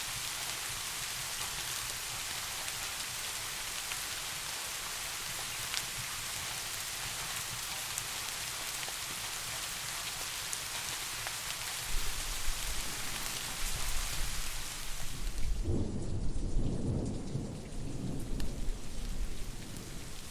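Steady rain falling, then about twelve seconds in a low rolling rumble of thunder builds up and carries on to the end, loudest a few seconds after it starts, while the rain hiss drops back.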